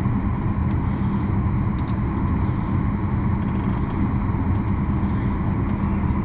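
Steady cabin rumble of a Boeing 737 MAX 9 taxiing after landing: its CFM LEAP-1B engines at idle and the cabin air system, with a constant low hum.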